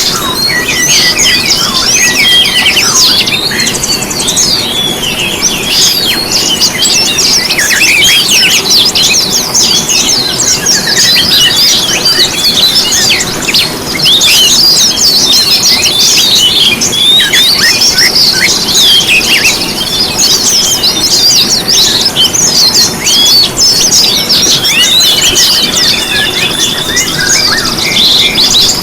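A dense, continuous chorus of many small songbirds chirping, twittering and trilling over one another, a mixed bird-lure recording of the kind played to set caged songbirds singing.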